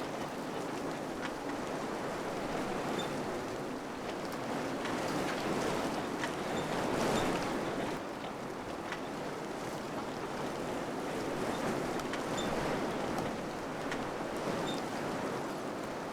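Wind blowing in gusts, swelling to its strongest about six to seven seconds in and then easing, with faint scattered ticks.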